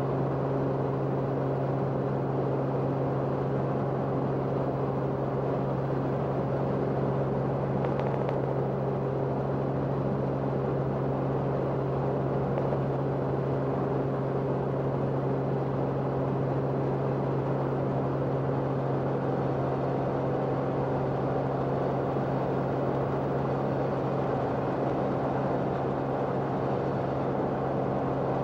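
Aircraft engine drone heard from on board, a steady unbroken hum with a strong low tone and no change in pitch.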